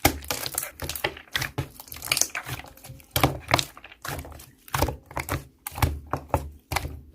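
Slime being squeezed and pressed by hand, making irregular sticky clicks and pops with soft low thumps, two or three a second.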